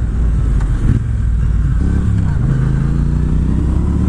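Triumph Bonneville T120's 1200 cc parallel-twin engine running under way through a British Customs Sleeper Pro exhaust, with a low wind rumble on the microphone. About two seconds in, the engine note comes through clearly as a steady pitched drone that eases slightly in pitch.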